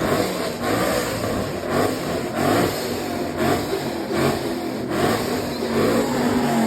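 Loud car engine revving again and again, the sound swelling and falling about once or twice a second.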